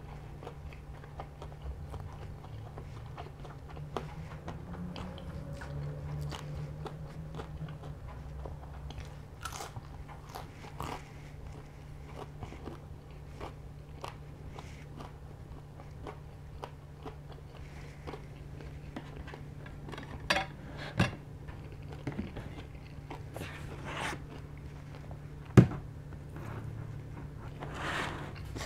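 Close-up chewing and crunching of buttermilk fried chicken, with many small crackles. Near the end come a few sharp knocks, the loudest one about three seconds before the end.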